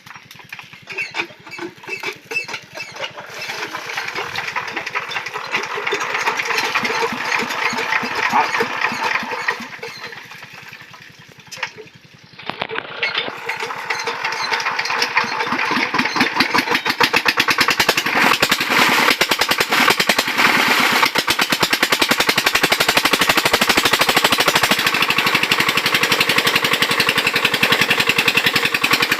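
Single-cylinder diesel engine of a Chinese shallow-tube-well water pump being started: uneven firing that builds up, falters and fades about ten seconds in, then catches about thirteen seconds in and runs on with rapid, even thumps.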